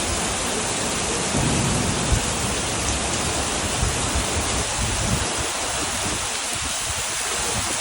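Heavy rain pouring down in a steady, loud hiss. A low rumble comes in about a second and a half in, with a thump at about two seconds.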